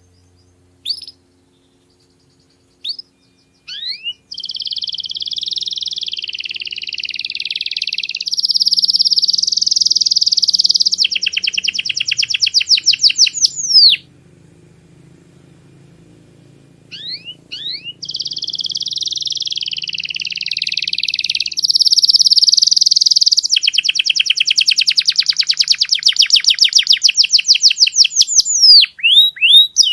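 Domestic canary singing: a few short chirps, then two long song phrases, each a run of rolling trills that ends in a fast series of sweeping notes, with a pause of about three seconds between them.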